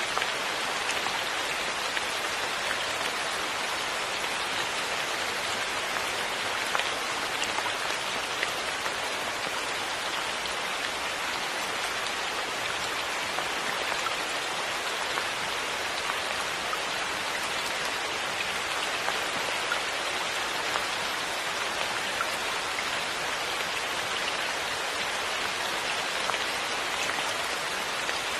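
Steady rain falling, an even rush of water with faint individual drop ticks scattered through it.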